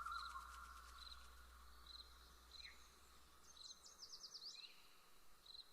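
Faint natural outdoor ambience: a short high chirp repeating about once a second, with a brief fast trill of quick sweeping bird notes about four seconds in.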